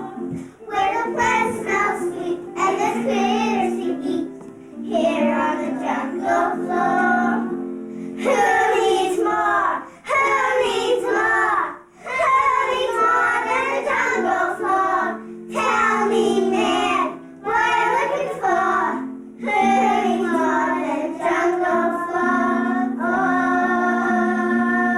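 Children singing a song in phrases over instrumental accompaniment, ending on a long held note near the end.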